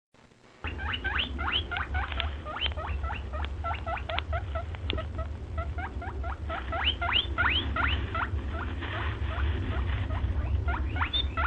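A small animal squeaking: a fast run of short squeaks, each rising in pitch, several a second, over a steady low rumble.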